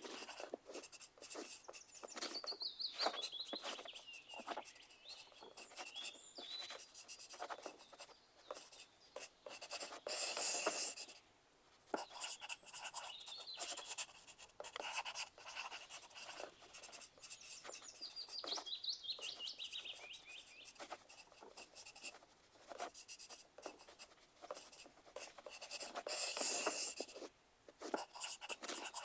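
Pencil writing on paper: quick scratching strokes in irregular bursts, with busier runs twice. A bird chirps twice in the background, in a short series of notes falling in pitch.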